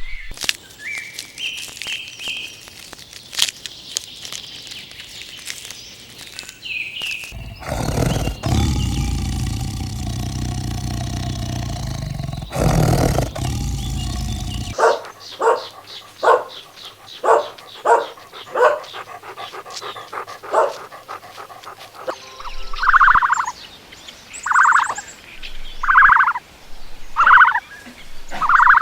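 A run of different animal calls: high chirps at first, a long loud low-pitched stretch in the middle, then a quick string of short calls and five loud calls repeated about every second and a half.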